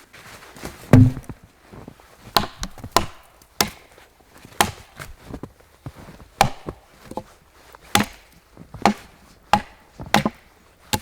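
Wood being chopped: about a dozen sharp strikes at an uneven pace, the heaviest a deep thud about a second in.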